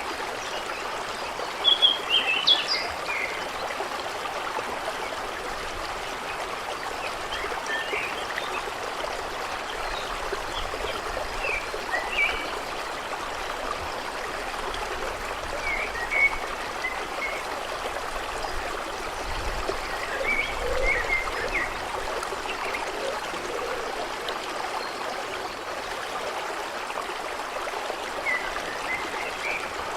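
A creek babbling steadily, with small birds chirping now and then; the loudest chirps come about two seconds in.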